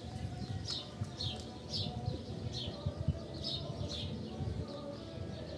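A small bird chirping over and over, short falling chirps about two a second, over a low steady rumble.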